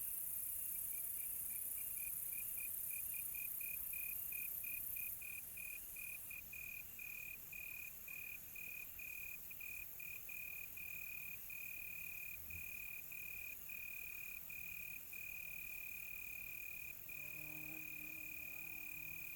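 Cricket chirping: a single high trill that starts as short, quick pulses and runs into longer trills broken by brief gaps, over a steady high hiss that drops about five seconds in.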